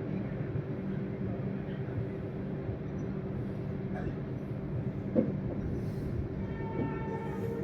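Steady running noise of a train heard from on board as it rolls slowly through a station. A train horn begins faintly near the end.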